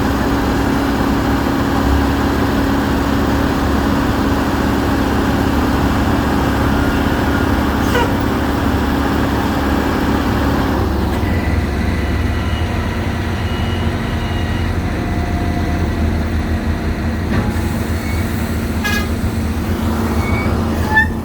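A heavy engine running steadily, its sound changing about halfway through, with a few brief high tones in the second half.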